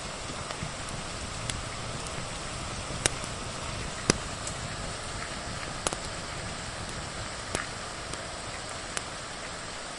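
Steady rain falling, with a log fire crackling over it: about six sharp pops of burning wood, the loudest two around three and four seconds in.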